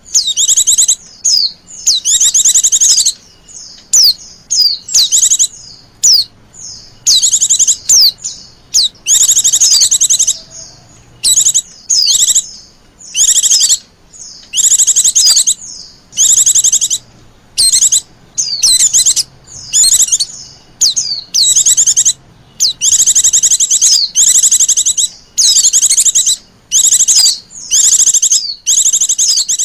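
White-eyes (pleci) chattering in loud, rapid high-pitched chirping bursts of about half a second to a second and a half, repeated over and over with short gaps. This is the noisy, agitated white-eye call used as a lure to bring in wild white-eyes.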